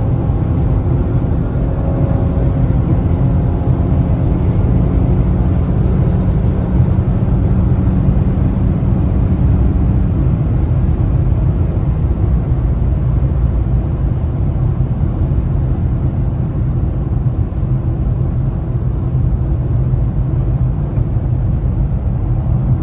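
A car driving at a steady pace, its engine and road noise running continuously with a low drone that drops away about ten seconds in.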